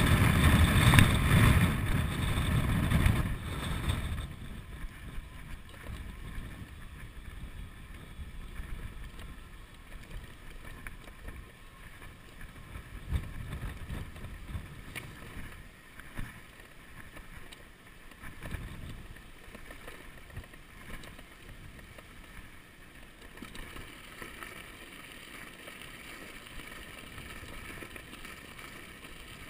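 Wind buffeting the microphone during an electric bicycle ride, loud and rumbling for the first four seconds, then dropping to a quieter, steady rush of riding noise.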